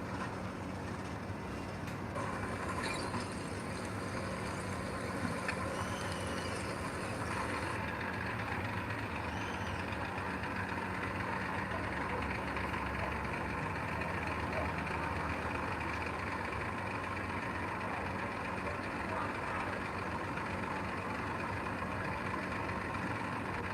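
Heavy earthmoving machinery's diesel engine running steadily under work, with a few faint high chirps over it.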